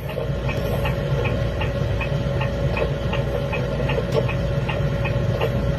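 A machine running steadily, with a held tone over a low rumble and a regular clicking about three times a second.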